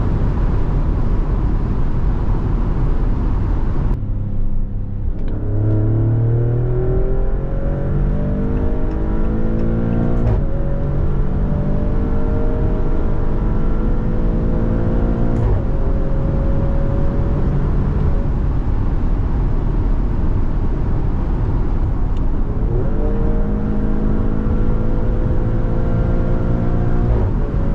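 Maserati Grecale Trofeo's twin-turbo V6 under hard acceleration, its pitch rising steadily through each gear and dropping at upshifts about ten and fifteen seconds in and again near the end, with a brief dip and renewed climb a little after twenty seconds. A steady rush of noise runs underneath, and thins out briefly just before the pull begins.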